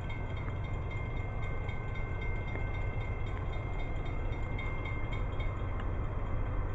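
Approaching Amtrak diesel passenger train, its steady low rumble slowly growing louder.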